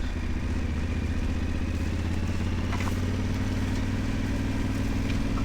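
Yamaha Ténéré 700's parallel-twin engine running at a steady pace under way on a dirt track, with a light tick about three seconds in.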